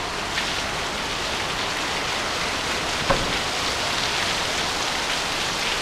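Heavy rain pouring down steadily, hard enough to sound like a hose running on the roof, with the odd sharper drop or splash standing out.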